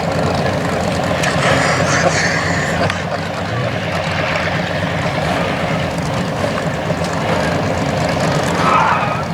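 Race car engines running steadily on the oval.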